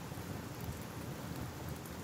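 Crackling fire ambience: a steady low rumble and hiss with a few faint sharp crackles near the end.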